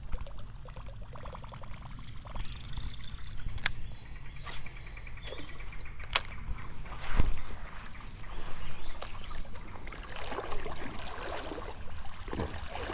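Water sloshing and trickling around a small fishing boat on a river, with a few scattered clicks and knocks: a sharp click about six seconds in and a knock about a second later.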